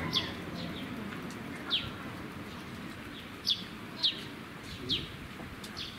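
Small birds chirping: a string of short, sharp, high calls that each drop quickly in pitch, five loud ones and a few fainter ones, over a steady low background murmur.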